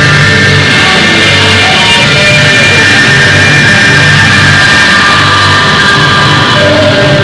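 Loud, heavily compressed rock music with distorted guitar and a steady low pulse.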